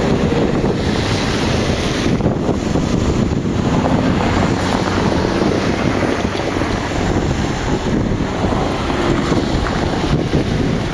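Freight train running past at line speed, giving a loud, steady noise of wagons and wheels on the rails.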